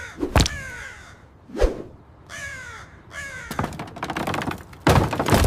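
Crow cawing several times in harsh calls that fall in pitch, with a short thump in between and a loud burst of noise near the end.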